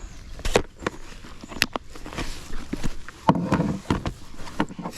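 Scattered sharp clicks and knocks of fishing tackle being handled, a hook and lure being picked out of a tackle kit, with a few small taps against the kayak.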